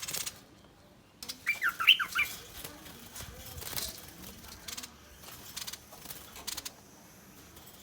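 Bulbul scolding: a quick run of about five short whistled notes about a second and a half in, among harsh rasping bursts, a threat display.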